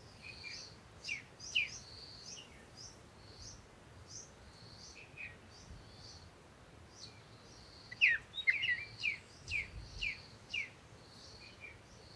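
Birds chirping: a repeated short high note keeps going, while another bird gives sharp, quickly falling chirps, a couple about a second in and a rapid loud series about two-thirds of the way through.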